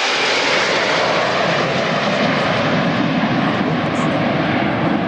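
Propeller-driven aircraft in flight: a loud, steady engine drone.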